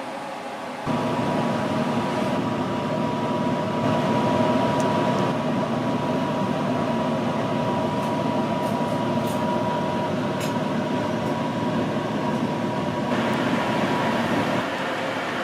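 Steady mechanical rumble and hum with a faint high whine, getting louder about a second in, with a few faint ticks.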